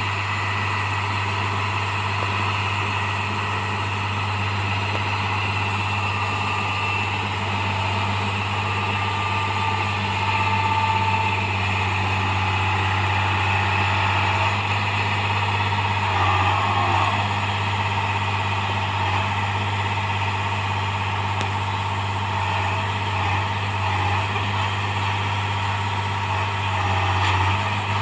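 Engine of a railway track-changing machine running steadily with a low, constant hum.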